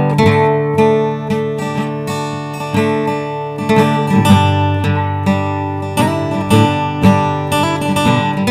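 Acoustic guitar playing an instrumental blues passage, picked notes over sustained low bass notes.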